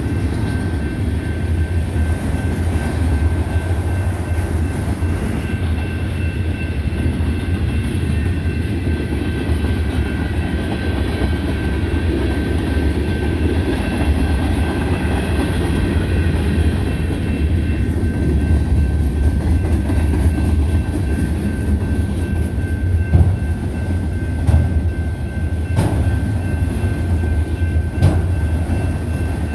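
Freight train cars rolling past with a steady heavy rumble and a faint high ringing from the wheels. Several sharp clacks over the rail joints come in the last few seconds.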